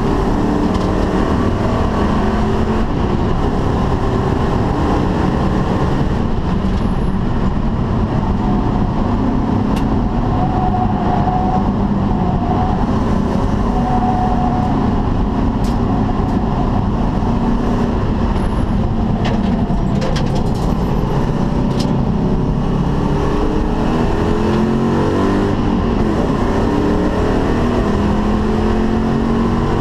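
Ford Mustang GT/CS V8 running hard at track pace, heard from inside the cabin under tyre and wind noise. In the last third it revs up and drops back several times as it changes up through the gears.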